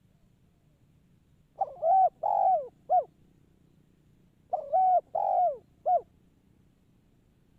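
Spotted dove (tekukur) cooing: two phrases of three notes each, a short note, a longer one and a short closing note, about three seconds apart.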